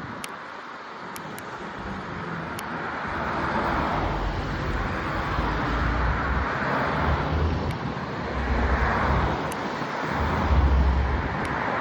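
Wind rushing over the microphone while cycling, growing louder over the first few seconds and then gusting in swells every couple of seconds, with low buffeting thumps.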